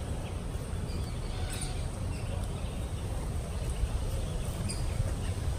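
Outdoor background noise: a steady low rumble, with a couple of faint bird calls.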